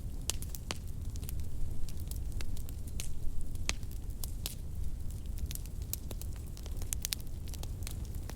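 Wood fire crackling in a fireplace: irregular sharp pops and snaps, a few at a time, over a steady low rumble of the flames.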